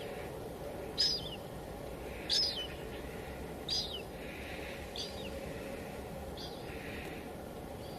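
Steady hiss of light drizzle with a bird calling over it: six short, high calls that slide downward, about one every second and a bit, growing fainter toward the end.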